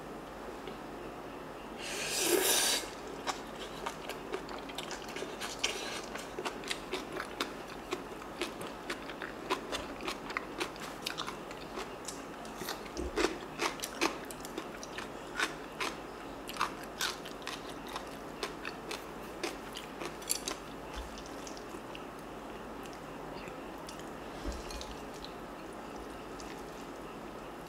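Close-miked crisp crunching as a mouthful of seasoned soybean sprouts is chewed, with many sharp crackles that thin out in the last several seconds. A brief loud noise comes about two seconds in.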